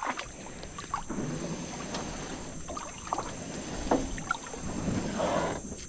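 Jon boat being push-poled through shallow water: irregular swishes and splashes of water around the hull and pole, about once a second, over a steady thin high-pitched whine.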